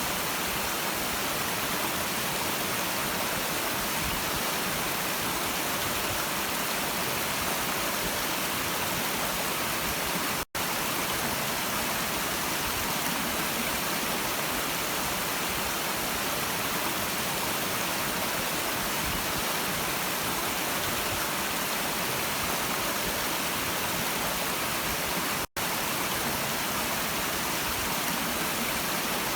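Stream water rushing in a steady, even hiss, cutting out for an instant twice.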